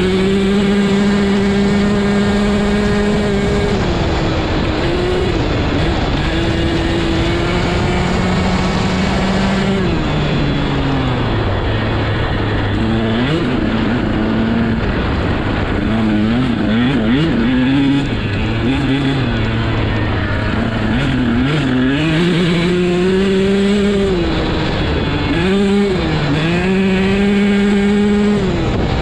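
Dirt bike engine being ridden, holding high revs, then easing off about a third of the way in and picking back up, with several quick dips and rises in pitch as the throttle is worked.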